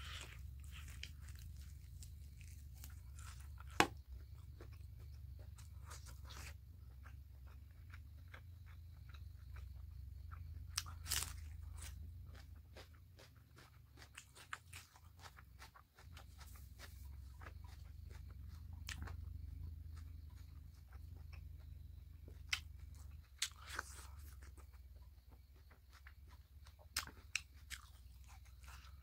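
A person chewing and biting into pork and rice eaten by hand, close to the microphone: wet chewing with sharp mouth clicks and crunches scattered through, over a steady low hum.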